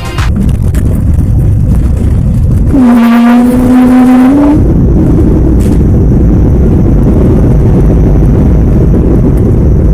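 Loud, steady rumble of an airliner's engines and rushing air, heard from inside the cabin. About three seconds in, a steady pitched tone sounds over it for under two seconds.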